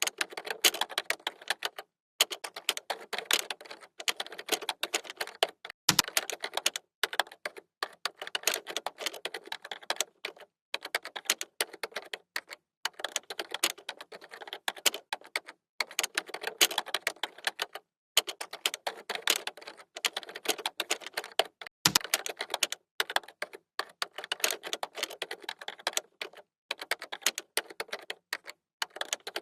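Typing on a computer keyboard: rapid, irregular keystroke clicks in runs, broken by brief pauses, with a heavier thump twice.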